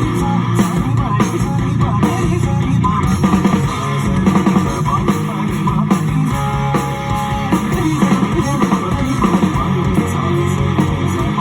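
Music led by plucked guitar, playing loudly and without a break.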